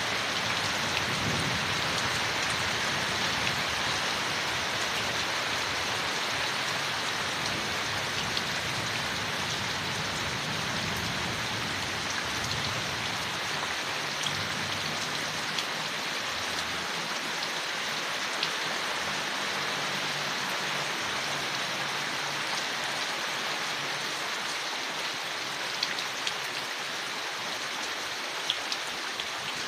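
Steady rain falling on leaves, an even patter with scattered sharper drops.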